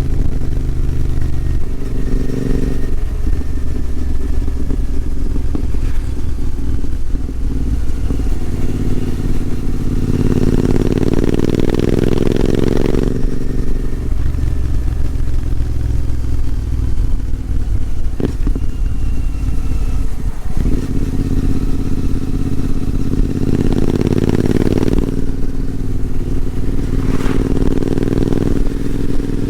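Royal Enfield Continental GT 650's parallel-twin engine and exhaust running steadily, the note rising under throttle and easing back down twice.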